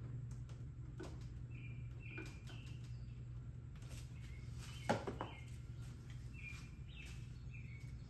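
Small birds chirping in short, repeated calls, with a few clicks and knocks from hand work on the hood latch striker, the loudest a sharp knock about five seconds in. A low steady hum runs underneath.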